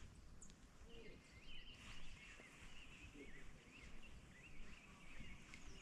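Faint bird song, a run of short warbling chirps repeating over quiet outdoor background.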